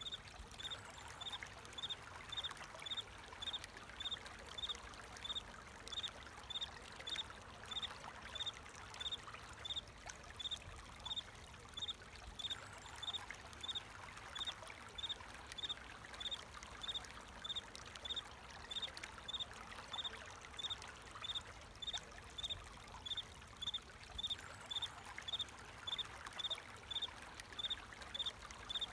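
A cricket chirping steadily, short high chirps evenly spaced at about one and a half a second, over the steady rush of flowing water.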